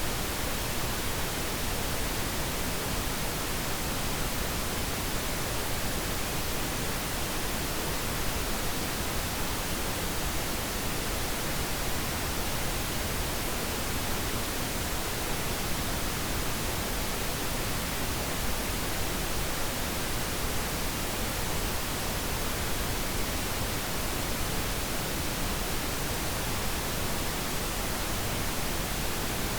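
Continuous pink noise: a steady, even hiss with no breaks or changes.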